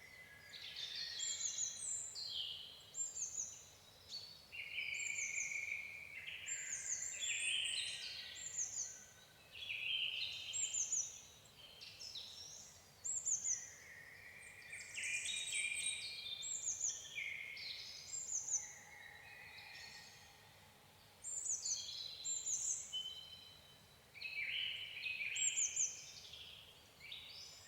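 Birds singing and chirping, with quick high falling notes in phrases a couple of seconds long separated by short pauses.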